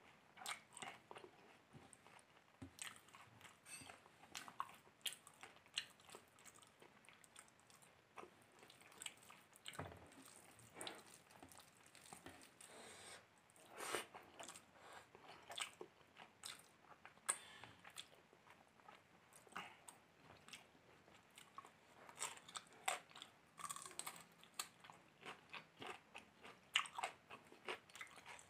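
Close-miked eating sounds: a man chewing mouthfuls of biryani rice eaten by hand, with his fingers mixing the rice on the plate. It comes across as a faint, steady run of short wet clicks and smacks.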